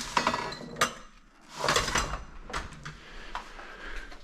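Old metal kitchen knives and cutlery clinking and rattling as they are handled, with a few sharp clinks and one longer rattle about two seconds in.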